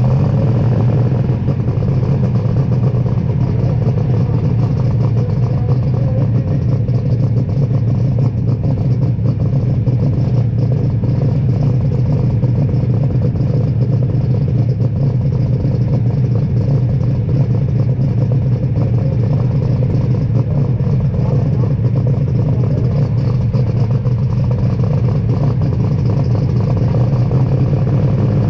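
Superstock pulling tractor's heavily modified diesel engine running loud and steady, holding its pitch without big rises or falls.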